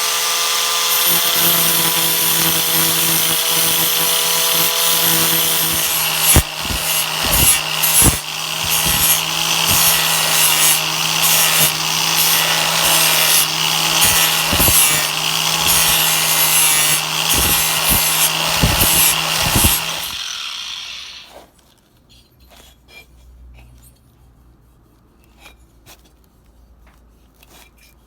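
Hand-held power grinder spinning up and grinding the skirt of a Ducati cylinder sleeve freehand: a steady motor whine under a harsh grinding hiss, with occasional sharp knocks as the tool catches the metal. About twenty seconds in, the grinder cuts off and winds down, leaving only faint clicks.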